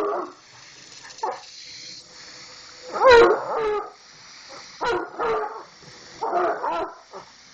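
Bloodhound howling in a string of short, wavering howls, about five of them, the loudest about three seconds in.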